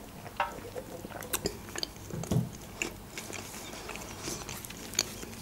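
Close-miked mouth sounds of someone eating: chewing and small mouth clicks scattered throughout, with one low thump a little over two seconds in.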